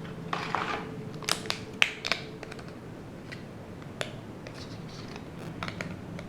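Scattered light clicks and taps, with a brief rustle about half a second in, from boxed PC components and their packaging being handled by hand.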